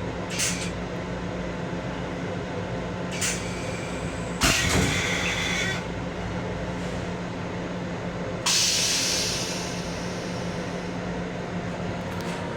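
Steady hum inside an M7 electric railcar, with a low tone. Short sharp hisses come near the start and about three seconds in. A knock with a hiss comes about four and a half seconds in, and a louder hiss starts suddenly about eight and a half seconds in and fades away.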